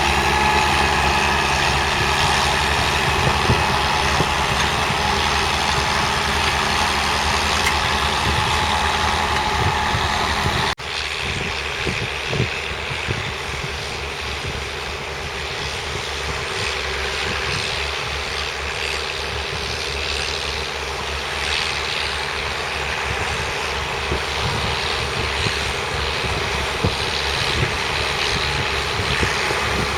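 Massey Ferguson 1200's 5.8-litre six-cylinder diesel engine running steadily. The sound cuts off abruptly about eleven seconds in and resumes a little quieter.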